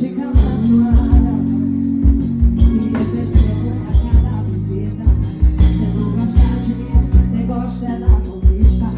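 Live band music with heavy, driving low drum beats, bass and keyboard, and singing over it.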